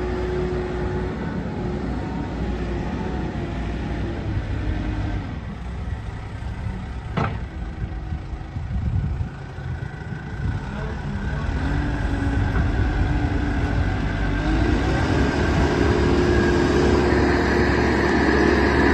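JCB 214 backhoe loader's diesel engine running steadily, then speeding up and getting louder about two-thirds of the way through.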